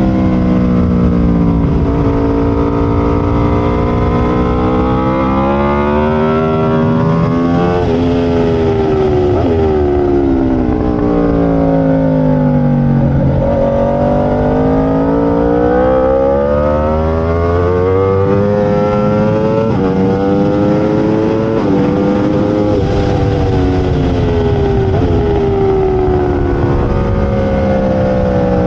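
Aprilia RSV4's V4 engine at full race pace. It revs up and down through the gears, with quick breaks in pitch at each shift. The pitch drops to its lowest about halfway through, then climbs again.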